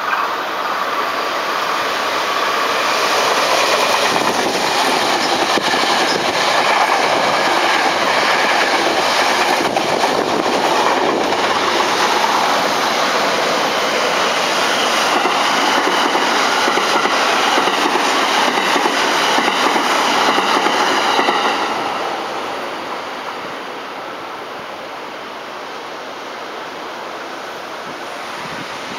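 Electric commuter train running along the tracks at the station, a loud steady noise of wheels on rails with a faint high whine over it. The noise dies down about three-quarters of the way through as the train moves off.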